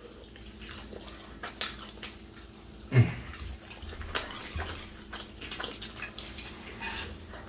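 Wet, close-miked chewing and lip-smacking of a person eating, with many small clicks and smacks. One louder short sound comes about three seconds in.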